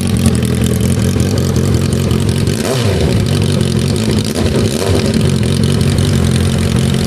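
A 2008 Suzuki GSX650F's inline-four engine is running with the stock muffler removed, so the exhaust is open. It idles steadily and is blipped twice near the middle.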